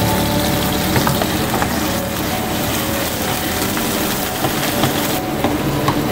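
Ginger-garlic paste sizzling steadily in hot oil in a non-stick frying pan as it fries to golden brown, with a slotted spoon stirring through it and now and then clicking against the pan.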